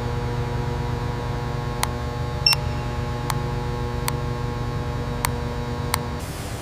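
Steady mechanical hum made of several fixed tones over a low rumble, with six sharp clicks roughly every second. The hum drops away just before the end.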